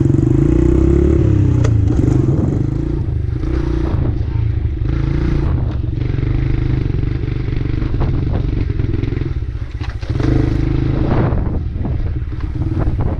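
Dirt bike engine running steadily, with a brief drop in engine sound about ten seconds in before it picks up again, and some light clattering.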